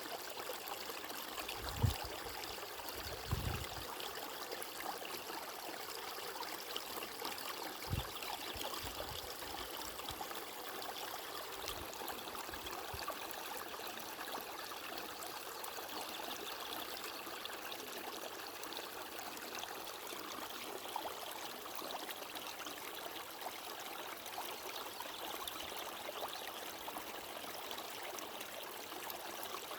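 Flowing stream water, a steady babbling and trickling, with a few brief low thumps in the first ten seconds.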